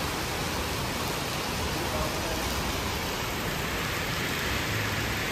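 Very heavy tropical rain pouring steadily onto wet pavement, a dense, even hiss of downpour with no letup.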